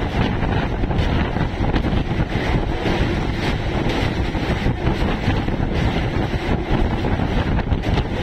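EMU suburban local train running along the line, heard from on board: a steady rush of wheel and track noise, with wind buffeting the microphone.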